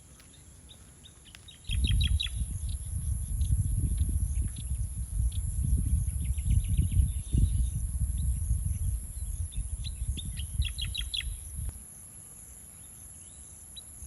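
Wind gusting on the microphone, a low, uneven rumble that starts abruptly a couple of seconds in and drops away near the end. Over it a small bird gives several quick runs of high chirps, with a steady high-pitched insect drone behind.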